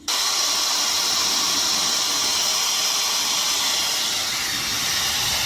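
Shark FlexStyle hair dryer blowing at full power: a loud, even rush of air that starts abruptly and holds steady.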